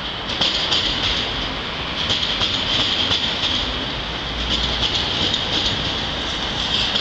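Electric multiple-unit passenger train running past, its wheels clacking irregularly over rail joints and points under a steady hiss of rolling noise.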